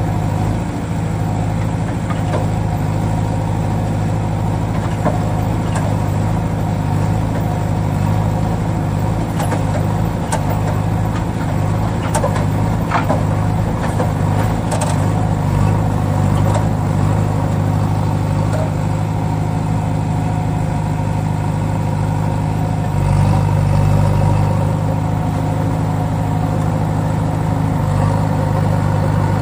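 A small motor running at a steady pace with an unbroken low hum, with a few light clicks scattered through the middle.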